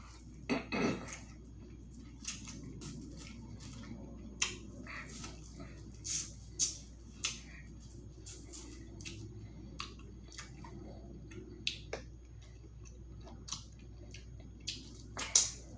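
Close-up eating sounds: wet mouth smacks, clicks and chewing at irregular intervals, over a low steady hum.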